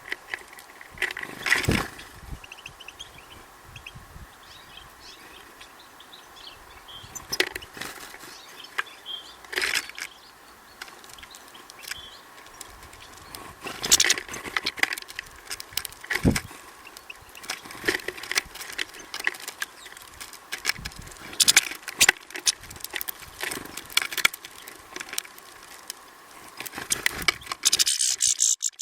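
Small birds at a feeder: irregular taps and clicks of pecking and landing, with a few faint chirps, over a faint steady hum. A loud scratching rustle comes near the end.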